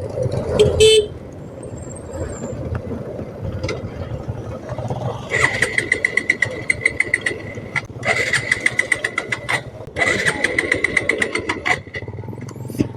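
Road traffic rumbling along a highway. From about five seconds in, a rapidly pulsing high-pitched buzz sounds in three stretches with short breaks between them.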